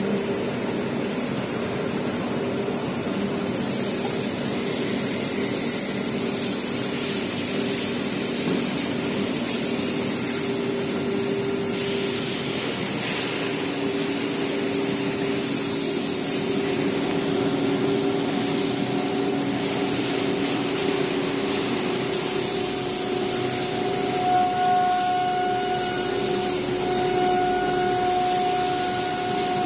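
CNC router running, with its air-cooled spindle and vacuum pump: a steady machine drone made of several held tones over a broad rushing noise, with a higher whine joining about three-quarters of the way through.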